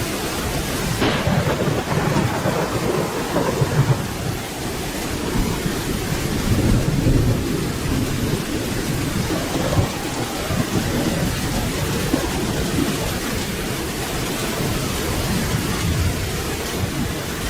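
Steady rain with low rolling thunder rumbling through it, swelling a few times without a sharp crack.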